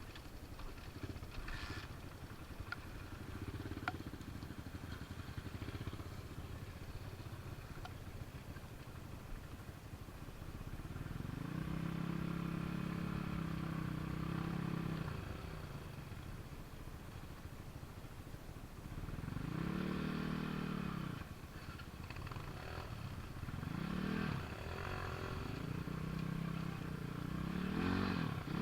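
Motorcycle engine running and revving up and down in several surges: a long one in the middle and shorter rising-and-falling ones near the end, between lower running. Some clatter comes with it.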